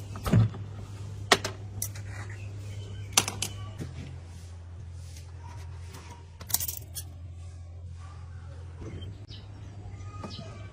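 Sharp metallic clinks and taps of small parts and tools being handled, a handful of separate strikes, over a steady low hum that shifts slightly about four seconds in and again near nine seconds.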